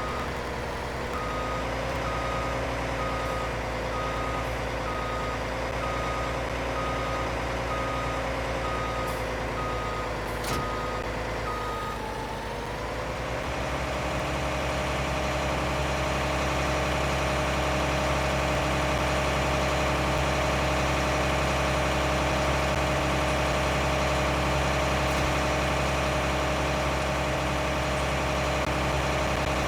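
Tractor engine running steadily while a reversing alarm beeps in a regular series. The beeping stops about twelve seconds in, the engine note dips and shifts, then settles to a steady, slightly louder run.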